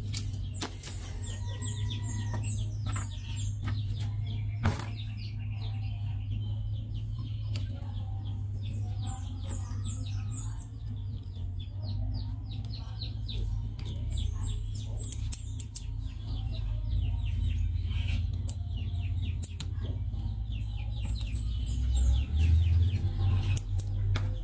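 Small birds chirping in repeated runs of short, high, falling notes, over a steady low hum, with one sharp click about five seconds in.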